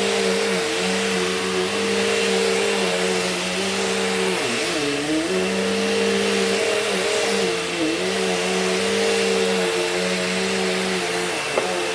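Bissell CleanView Rewind Pet upright vacuum cleaner running on carpet: a steady motor whine whose pitch dips briefly several times, most deeply about halfway through. A single sharp click near the end.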